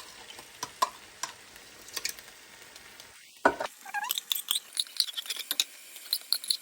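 Spoon stirring chicken in a thick cream of mushroom sauce in a pan, with scattered clicks and scrapes against the pan, a louder knock about three and a half seconds in, then quicker clinking and scraping.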